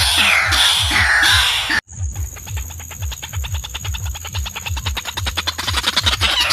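Waterhen calls from a looped recording: fast ticking mixed with falling call notes and a low pulsing rhythm. The sound cuts out abruptly about two seconds in, then the loop starts again.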